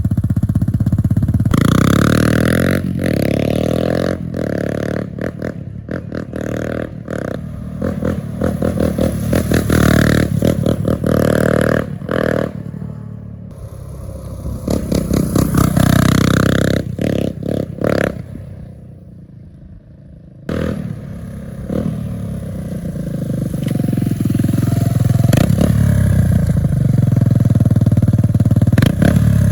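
Suzuki DR200S single-cylinder four-stroke engine running through its new exhaust pipe, revving up and down several times. It drops to a low level for a couple of seconds past the middle, then picks up and runs steadily.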